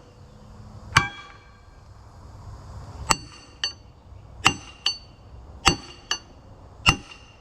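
Hammer blows on a steel punch set against a rust-seized collar on a winch shaft, about eight sharp metallic strikes with a short ring after each. Several come as a heavy blow followed by a lighter one. The collar is just starting to turn loose.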